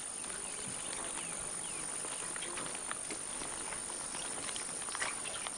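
Forest ambience: a steady high insect drone with scattered small clicks and brief chirps.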